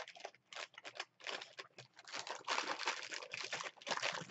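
Close-up chewing of crispy fried cheese curds: irregular crackly crunching, some bites louder than others.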